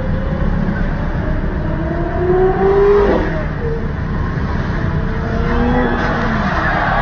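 A car engine revving as it passes, its note climbing to about three seconds in and falling again later, over a loud, steady rumble of noise.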